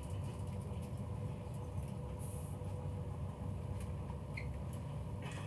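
Steady low rumble and constant hum inside a passenger train coach, with a few faint clicks and a brief hiss about two seconds in.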